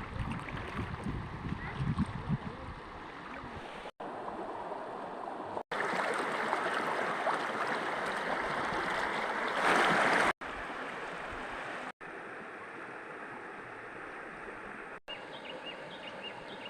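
Running, gurgling water in several short clips that cut abruptly from one to the next, loudest in the middle with a brief surge just before a cut.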